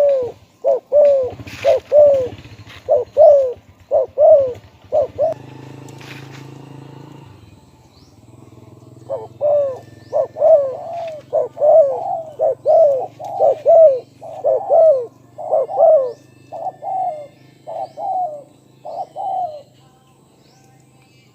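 Spotted dove cooing: two long runs of short, hooked coos, with a pause of a few seconds between them. A steady low hum runs underneath.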